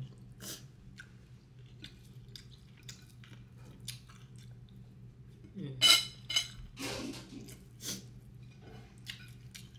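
Close-up chewing and eating: small wet mouth clicks and smacks while a mouthful of fried eggplant and meat is eaten, with a louder cluster of eating noises about six to eight seconds in.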